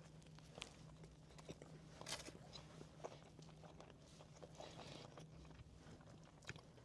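Faint chewing of a mouthful of burger, with small scattered mouth clicks and one slightly stronger click about two seconds in.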